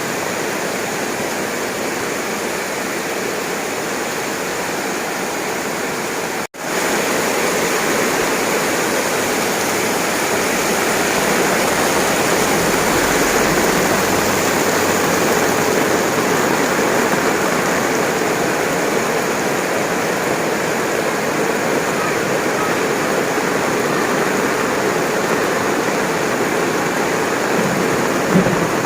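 Heavy rain pouring down in a steady, dense hiss. It cuts out for an instant about six seconds in, then carries on slightly louder.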